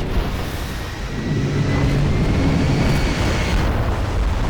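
Film sound effects of a spaceship crashing into water: a loud, continuous rumble with blasts, and a low pitched groan in the middle.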